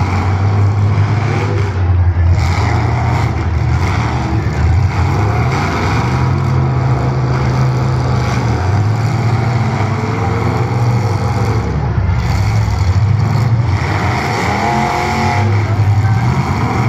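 Several full-size demolition derby cars running and revving in the arena, their engine pitch repeatedly rising and falling.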